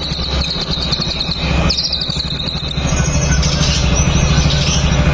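White-rumped shama (murai batu) singing a few rapid, high trilled phrases over a steady low hum.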